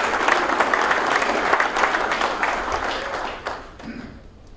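Audience applauding in a large hall; the clapping holds steady, thins out about three and a half seconds in and dies away.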